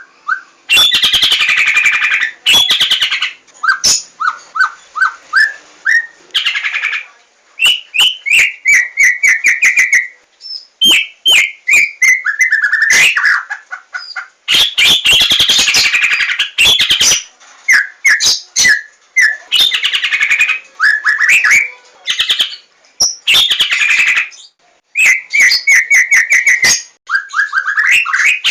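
White-rumped shama (Javan murai batu) singing loud, varied phrases close by: quick series of clear whistled notes and trills, mixed with harsh scratchy bursts, with short pauses between phrases.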